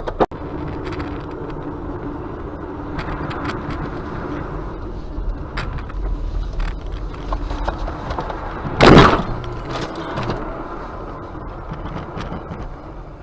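Car driving, with a steady engine and road rumble and a few faint clicks. A short, loud noisy burst comes about nine seconds in.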